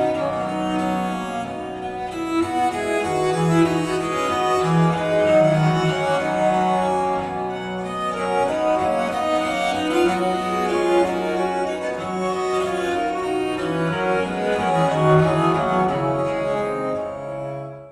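Recorded string music led by cello with other bowed strings, played back through Sonus Faber Lumina V hi-fi loudspeakers and picked up by microphones in the room. It fades out near the end.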